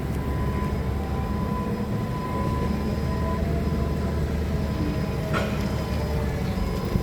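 Forklift engine running steadily with a low, even rumble, and a brief click about five and a half seconds in.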